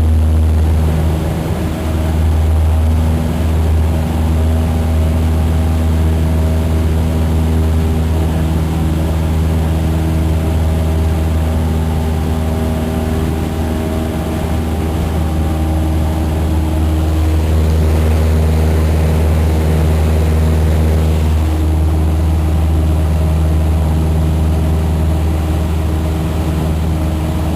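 Cessna single-engine piston airplane's engine and propeller at takeoff power, a steady loud drone with a deep hum and several held tones. The tones shift a little about three quarters of the way through.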